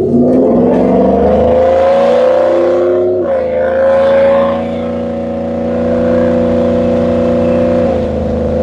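2002 Chevrolet Silverado's engine and freshly installed exhaust pulling under acceleration, heard from inside the cab. The engine note rises, drops sharply as the transmission upshifts about three seconds in, climbs again, and drops with another upshift near the end.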